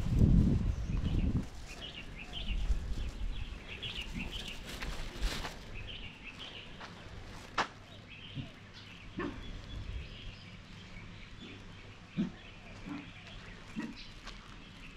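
Small birds chirping in short scattered calls, with a low rumble in the first second and a half and a few sharp clicks later on.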